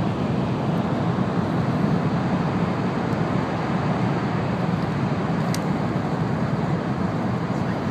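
Steady running noise inside the passenger cabin of an N700 series Shinkansen: an even low rumble of the train in motion, with no change in level.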